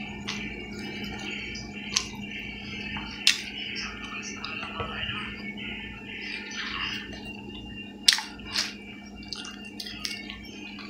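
Eating sounds of a person having rice and pork by hand: chewing and mouth noises with a few sharp lip smacks, over a steady low hum.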